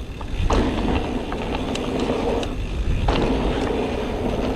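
Mountain bike riding fast down a dirt flow trail over jumps: steady tyre and wind rumble, with a sharp knock about half a second in and another about three seconds in, as the bike lands.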